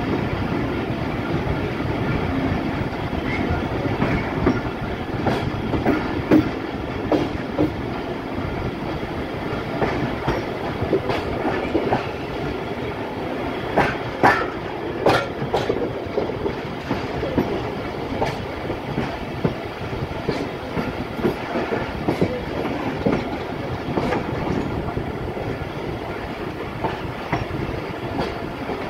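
Railway passenger coach running on the track, heard from on board: a steady rumble with the wheels clattering over rail joints in irregular clicks and knocks, the sharpest of them about halfway through.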